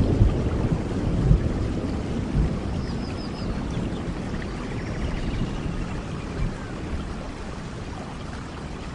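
Steady rain falling in a forest, with a low rumble of thunder dying away over the first few seconds. A few faint high chirps sound about three seconds in.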